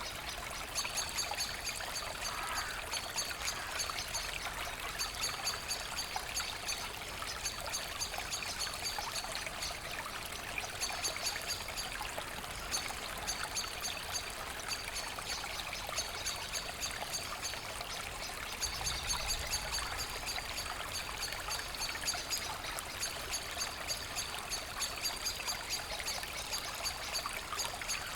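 Forest creek babbling and trickling steadily over stones, with a high chirp repeating about twice a second.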